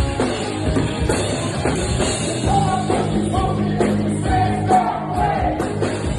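Rock band playing live with a lead vocal. The singer holds several long notes through the middle over steady drum hits.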